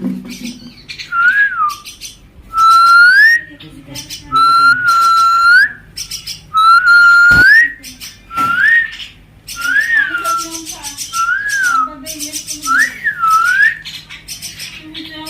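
A person whistling eight clear notes. The first few are long and held, each rising at its end; the later ones are short up-and-down swoops. A sharp click comes about halfway through.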